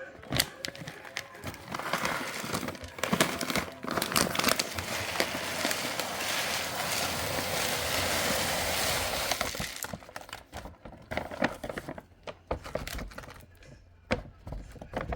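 A plastic bag of tofu cat litter crinkling and rustling as it is handled. From about four seconds to ten seconds in, a steady rush of the granules pouring out, then more scattered clicks and rustles.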